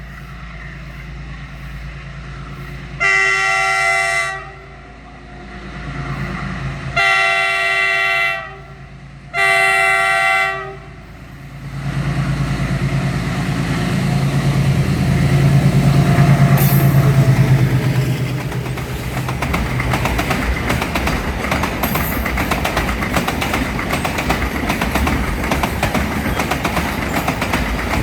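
An Indian Railways diesel locomotive sounds its multi-note horn in three blasts of over a second each, then passes close with its engine rumbling loudest about halfway through. The train's wagons follow, rolling and clattering steadily over the rail joints.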